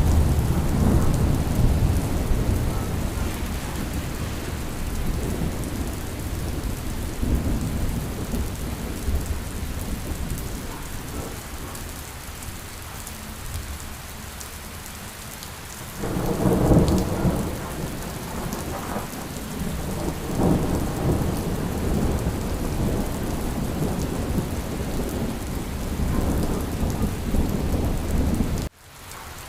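Steady rain with rolling thunder. The low rumble fades into a quieter spell, then a new roll of thunder breaks in suddenly about halfway through and keeps rumbling; the sound drops out briefly near the end.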